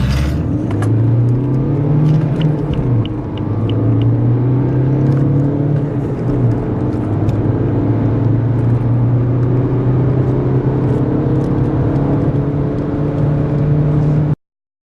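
Four-cylinder turbodiesel car engine under hard acceleration from a standstill, its pitch breaking at gear changes about 3 and 6.5 seconds in. It cuts off suddenly near the end.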